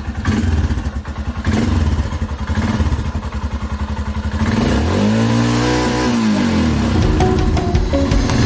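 Royal Enfield Himalayan's single-cylinder engine idling through an aftermarket Powerage exhaust with a quick, even pulse, revved once about halfway through, the pitch rising and falling back, then settling to idle again.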